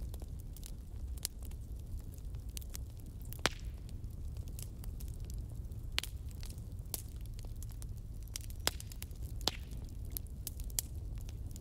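Wood fire burning, with a steady low rumble and irregular sharp pops and crackles, the loudest about three and a half, six and nine seconds in.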